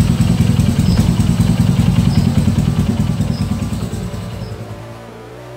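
A V-Blade 250's air-cooled V-twin engine running on the stand with a pulsing exhaust note, fading out near the end. A cricket chirps about once a second in the background.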